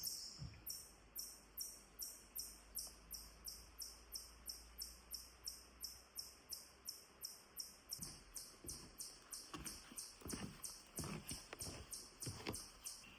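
Insect chirping in a steady, high-pitched rhythm of about four pulses a second. A few footsteps are heard in the second half.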